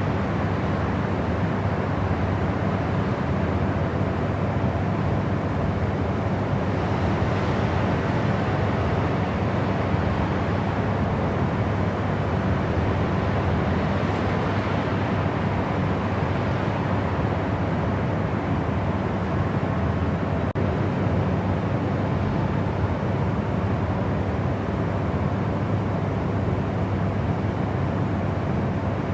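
Steady white noise, an even rushing hiss weighted toward the low end, with a couple of faint swells in the upper range.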